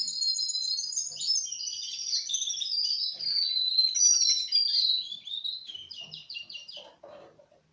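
Young male Russian canary, about four months old, singing a continuous song of rapid high trills and warbles. The song ends a little before seven seconds in with a quick run of repeated notes.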